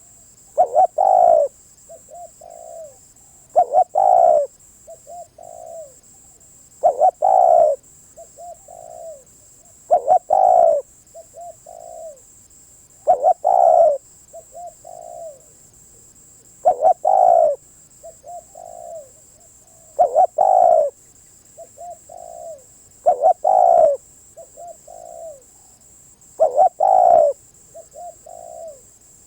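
Spotted dove cooing its song over and over, about one phrase every three seconds. Each phrase is a few soft short coos followed by a loud drawn-out coo.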